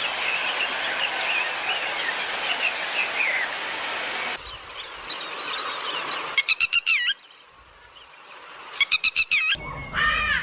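A dense chatter of many small birds chirping together for about four seconds, then, after a cut, two short runs of rapid repeated calls, each lasting under a second, about two seconds apart.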